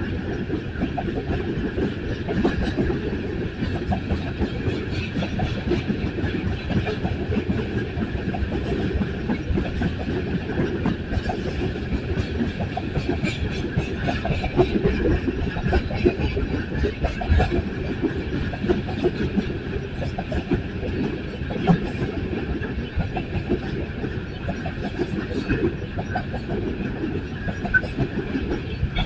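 Coal train cars rolling past: a steady rumble of steel wheels on the rails, with continual clicking and clattering.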